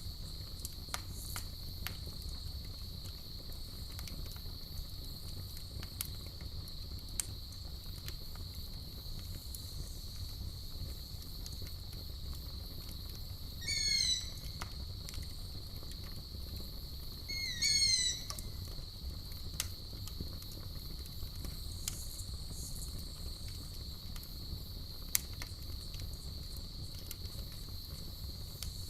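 Campfire crackling with scattered small pops over a low rumble, under a steady high trill of night insects such as crickets. About halfway through a creature gives a short high call of several quick falling notes, and calls again about four seconds later; these are the loudest sounds.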